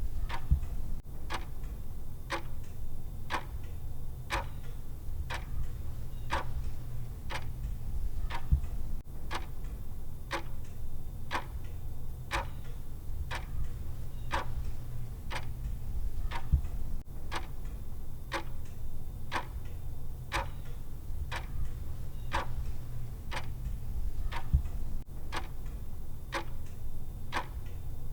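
Countdown timer's clock-style tick sound: steady, evenly spaced ticks over a steady low hum.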